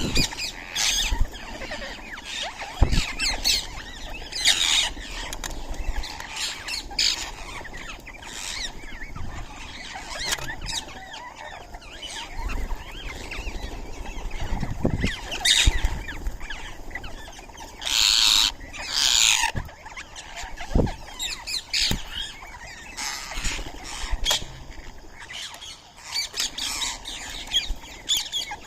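Indian ringneck parakeets calling, a steady run of short harsh screeches, two louder, longer ones about two-thirds of the way through, with a few sharp knocks in between.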